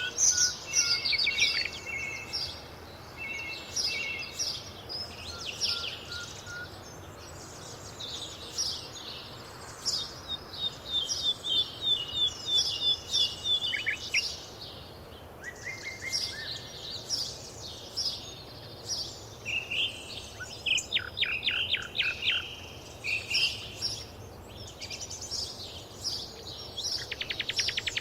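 A chorus of several songbirds singing and chirping, with many overlapping high whistles, chirps and rapid trills over a faint steady background hiss; a fast buzzy trill comes in near the end.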